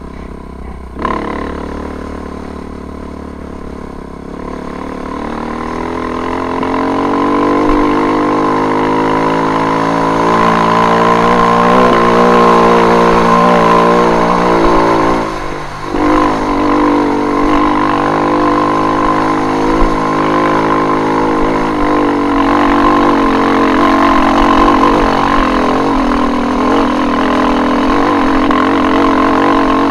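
KTM off-road motorcycle engine running under load on a forest dirt track, its revs climbing steadily over the first dozen seconds. About fifteen seconds in the engine note drops off briefly, as when the throttle is closed, then picks up and holds steady.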